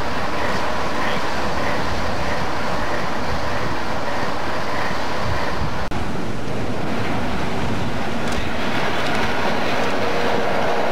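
Diesel locomotive engine running close by. After a cut about six seconds in, a freight train led by diesel locomotives rolls past, engines running and steel wheels rolling on the rails.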